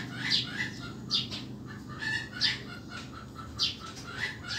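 Birds chirping: short high calls about once a second, with a run of quick, evenly spaced notes, about four a second, in the second half.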